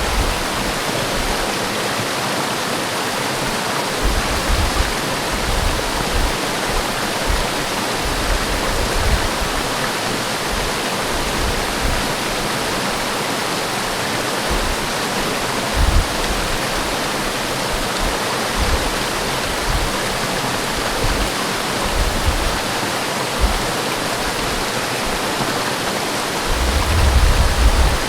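Waterfall, its water rushing in a steady, even hiss. Occasional low rumbles come and go, the strongest near the end.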